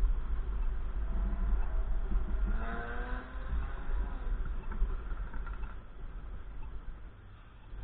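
Gusty wind buffeting the microphone, a low rumble throughout. About three seconds in, a vehicle engine passes briefly, its pitch bending as it goes by.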